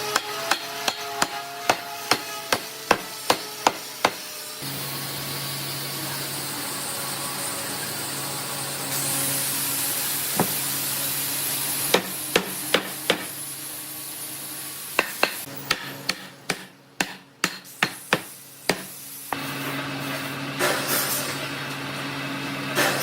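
Hammer blows on wood in regular runs of about two to three strikes a second. Between the runs a motorised workshop tool hums steadily.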